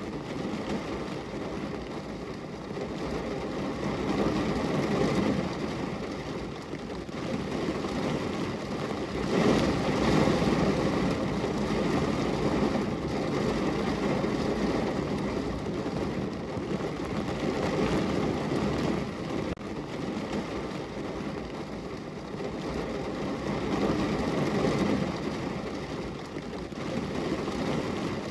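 Steady rain falling on a window, a dense, even hiss that rises and eases in slow waves every few seconds.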